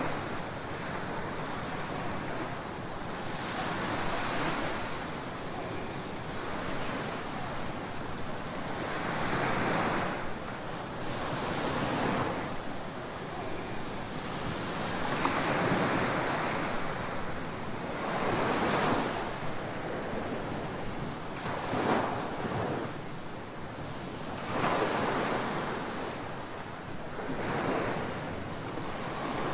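Ocean surf breaking and washing on a beach: a steady rush of water that swells with each wave about every three seconds.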